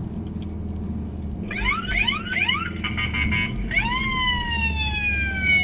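Emergency vehicle siren coming on about a second and a half in: a run of quick rising yelps, a brief warble, then one long, slowly falling tone, over the low hum of a vehicle engine.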